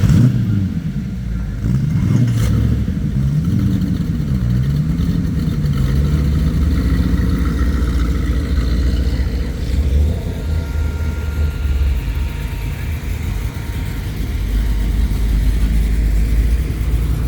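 Car engine revved up and down about five times in quick succession, then settling into a steady low rumble.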